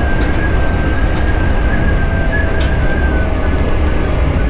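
Hankyu electric train running along the track, heard from inside the driver's cab: a steady loud rumble with a high steady whine that fades out about three seconds in, and a few sharp clicks.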